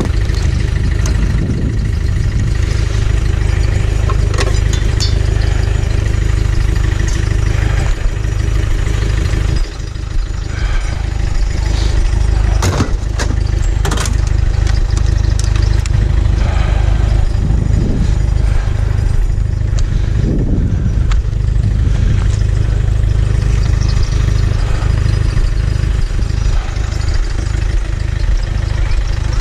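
Car engine and road noise: a steady low rumble, with a few sharp knocks and rattles around the middle.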